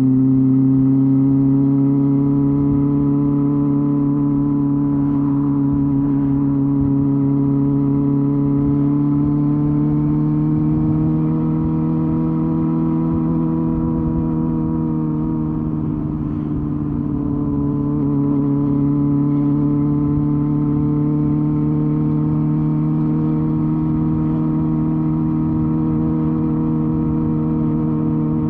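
Honda Hornet 250's inline-four engine and exhaust, ridden at a steady cruise. The engine note rises gently, dips briefly just past the middle, then holds even again.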